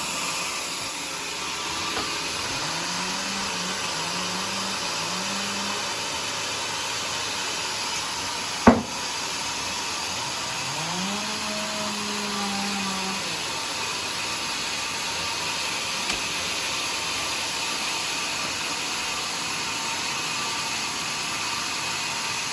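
Sawmill saw running steadily as it cuts through a log of joar wood, with a low hum that rises and holds a few times and one sharp knock about nine seconds in.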